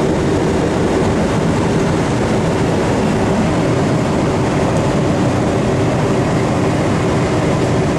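Mid-1970s Chevrolet farm truck's engine running steadily with the truck under way, heard from inside the cab together with road noise.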